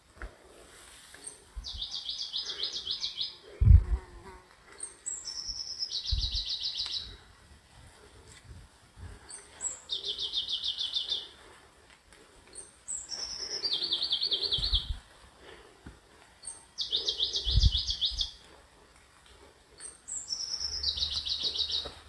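A songbird repeating the same short song about every four seconds: a high note or two, then a fast, even trill lasting about a second. Low thumps fall between the songs, the loudest just under four seconds in.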